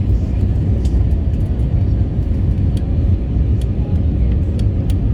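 Airbus A320 cabin noise: a loud, steady low rumble of the engines and airflow heard from inside the cabin, with faint ticks of cabin rattles now and then.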